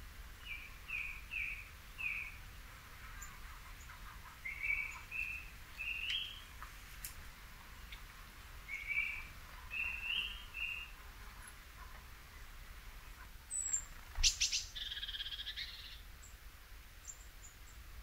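Songbird singing: short whistled notes in small groups, some repeated two or three times. About fourteen seconds in come a few sharp clicks and a longer, harsher call lasting about a second.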